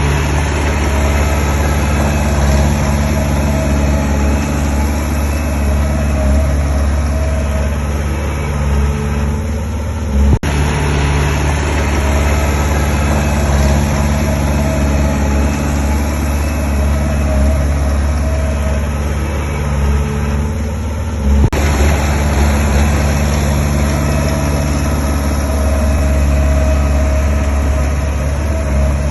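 Heavy diesel engine of earthmoving machinery running steadily, broken by two abrupt cuts about ten and twenty-one seconds in.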